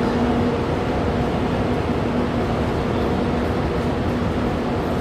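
Steady rumble and hiss of a moving vehicle, with a faint steady hum running through it.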